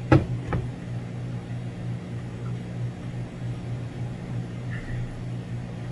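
Two light knocks in the first half second, then a steady low electrical hum from a room appliance.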